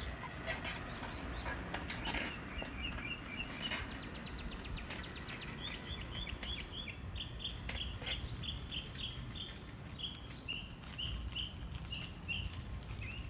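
A songbird chirping in runs of short, high repeated notes, about two or three a second.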